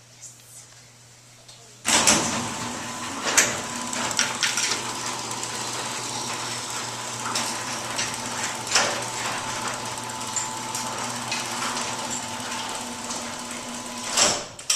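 Garage door opener motor driving the main two-car overhead garage door down: a steady motor hum with rattling clicks. It starts about two seconds in and stops near the end with a clunk.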